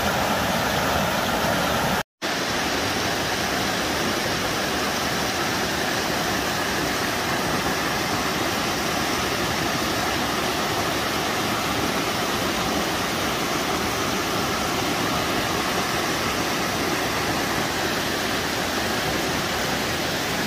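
Waterfall rushing: a steady, loud roar of falling water, broken by a brief silent gap about two seconds in, after which the water noise runs on with a slightly different tone.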